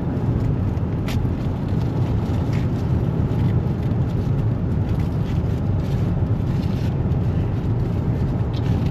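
Steady low road and engine rumble heard inside the cabin of a moving truck, with a single sharp click about a second in.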